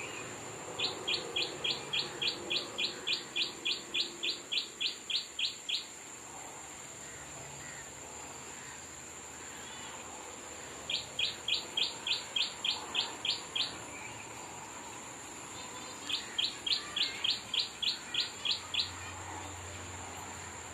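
A bird calling in three bouts of short falling notes repeated about three or four times a second, the first bout the longest, over a steady high-pitched insect drone.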